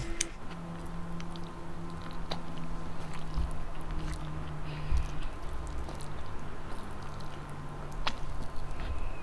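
A person chewing a mouthful of rice with salted egg and tomato, close to the microphone, with small wet clicks and squishes from mouth and fingers. A low steady hum runs underneath.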